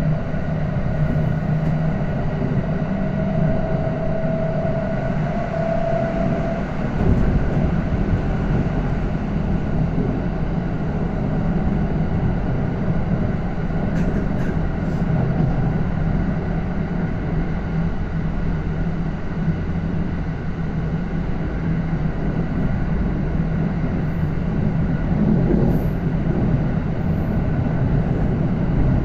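Kintetsu electric train with GTO-thyristor inverter traction running, heard from inside the car: a steady rumble of motors and wheels with fixed whining tones. A higher whine rises slightly for a few seconds and stops about seven seconds in, while the running rumble goes on.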